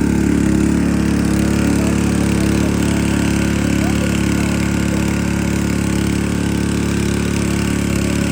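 An engine running steadily at idle, with an even low hum that holds the same pitch throughout.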